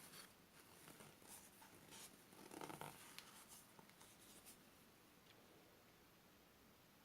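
Faint scraping and rubbing of a spatula against the bowl as it folds macaron batter: meringue being worked together with almond flour and sugar powder. The strokes run for about four seconds, then stop.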